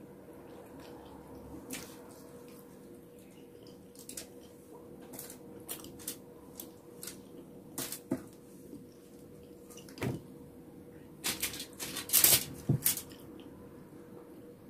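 Close-up eating sounds: scattered soft clicks and smacks of chewing and of fingers picking food off a foil-lined tray, with a louder run of them near the end, over a faint steady hum.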